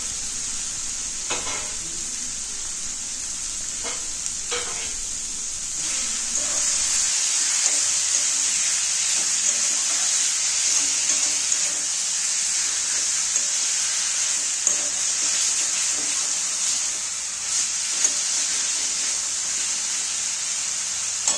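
Raw chicken mince sizzling as it fries in hot oil and spice paste in a kadai, stirred with a spatula; the sizzle grows louder about six seconds in. A few short scrapes and taps of the spatula against the pan.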